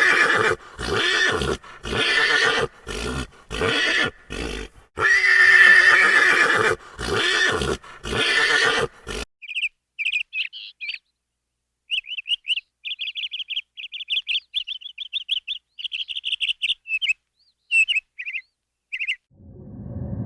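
An animal calling loudly in two bouts of harsh, pulsed, neigh-like cries. Then comes a run of quick high chirps with short gaps.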